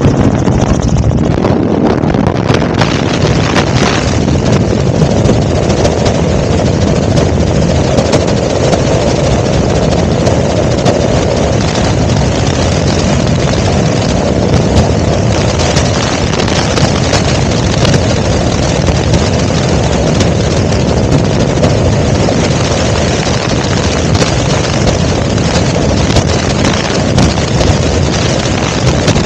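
Helicopter in flight: a loud, steady rush of engine and rotor noise.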